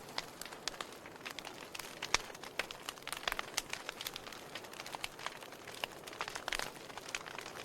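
Wood fire in a fireplace crackling, with irregular sharp pops and snaps from the burning logs over a soft steady hiss; the biggest pops come about two seconds in and again near the end.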